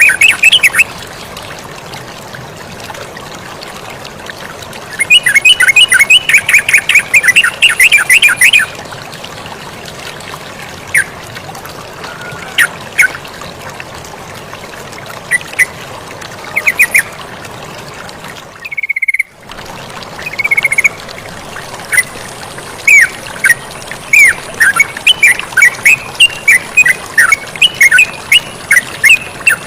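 Yellow-vented bulbul (terucukan) calling in bursts of rapid, repeated chirps, with scattered single notes between, over the steady hiss of flowing water. The sound briefly cuts out a little past halfway, and the chirps come thick and fast near the end.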